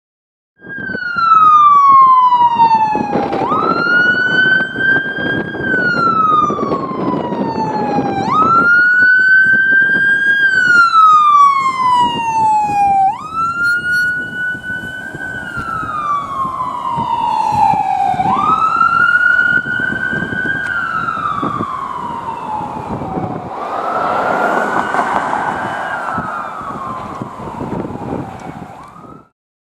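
Fire engine siren wailing in slow cycles, about five of them. Each one sweeps up quickly, holds high, then slides slowly down, over the rumble of the truck running on the road: an engine on an emergency run.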